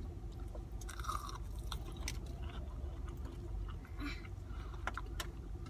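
A person biting into and chewing a breaded fried chicken tender, with short crunches and clicks every second or so.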